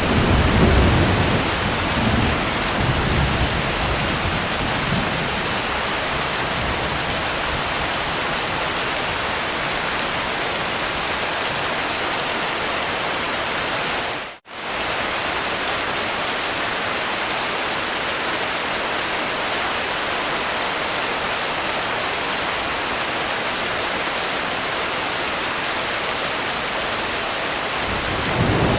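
Steady rain with low thunder rumbling over the first few seconds and building again near the end. The sound cuts out for a split second about halfway through.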